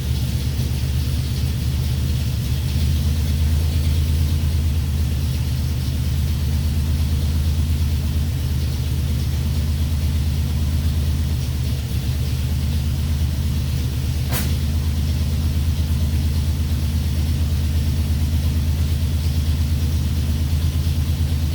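An engine idling steadily at an even speed, with one short sharp click about two-thirds of the way through.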